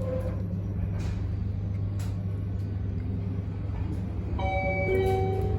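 Abukuma Express 8100 series electric train running, heard from on board: a steady low rumble with a few sharp clicks. About four seconds in, several steady higher tones come in, and one tone slowly rises in pitch.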